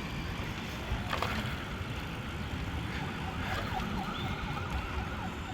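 Wind rumble and rolling noise from riding a bicycle along a street. A faint, high, wavering tone runs under it from about a second and a half in until near the end.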